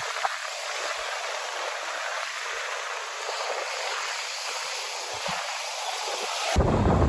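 Ocean surf and rushing water giving a steady hiss around a GoPro on a bodyboarder. Near the end a loud, low buffeting rumble cuts in suddenly, as of wind on the microphone.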